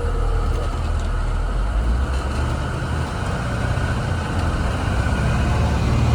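Blue Bird Vision school bus heard from inside the cabin while driving: a steady low rumble of engine and road noise.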